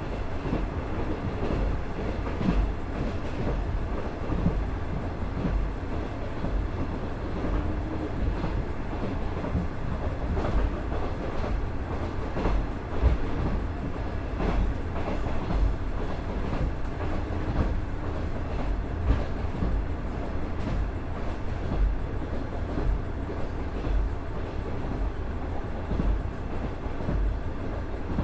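Onboard running sound of a KiHa 110 series 200-subseries diesel railcar under way: a steady low rumble with irregular wheel knocks over the rail joints every second or two.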